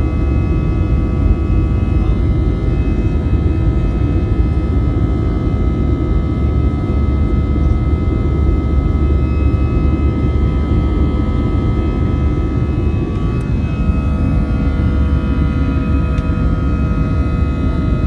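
Jet airliner engines heard from inside the cabin during takeoff: a loud, steady rumble with a steady whine on top that shifts slightly in pitch about two-thirds of the way through.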